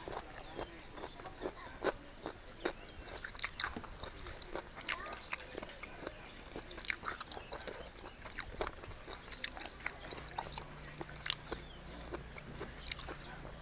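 A person chewing and biting into seafood papaya salad with fresh shrimp: wet, crunchy chewing with irregular sharp clicks and smacks.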